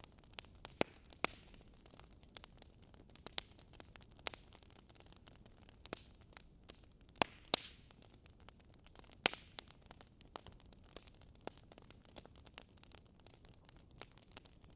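Fire burning in a fireplace, crackling: irregular sharp pops and snaps over a soft hiss, with a few louder cracks standing out.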